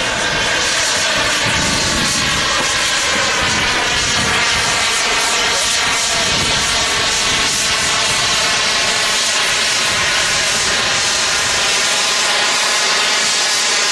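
Engine of a giant-scale radio-control model airplane running steadily at high power, a continuous buzzing drone with only slight changes in pitch.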